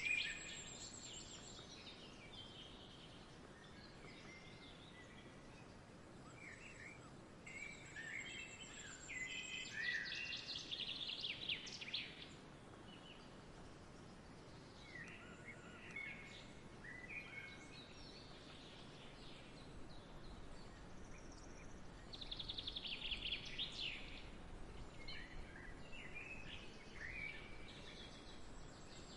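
Several songbirds chirping and singing in short phrases and quick trills, over a faint steady background hiss.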